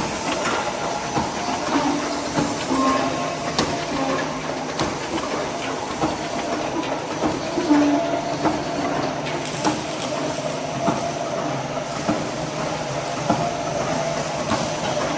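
Wire mesh making machine running: a steady mechanical clatter and hum with scattered sharp clicks.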